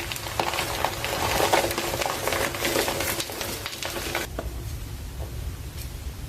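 Gym chalk mixture being stirred and scraped with a utensil in a dish: a dense crackling crunch that stops about four seconds in, leaving only a faint low rumble.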